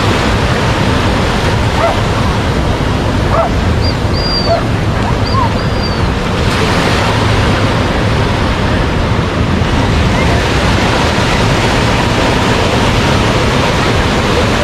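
Ocean surf breaking and washing up the beach in a steady roar, with wind on the microphone. A few faint, short, high calls sound between about two and six seconds in.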